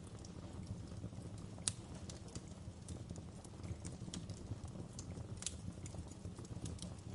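Wood fire crackling in a fireplace: a steady low rumble of burning with irregular sharp pops and snaps of the logs, two louder snaps about a second and a half in and again about five and a half seconds in.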